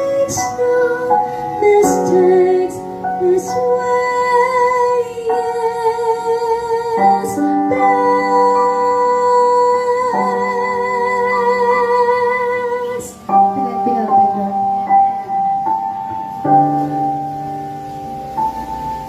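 A woman singing a hymn over a piano accompaniment track, holding a long note with vibrato through the middle. The piano chords carry on more steadily near the end.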